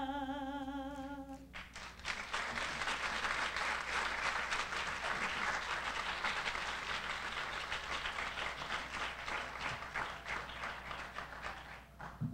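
A solo voice holds the last sung note with vibrato, ending about a second and a half in, then an audience applauds steadily, tailing off near the end.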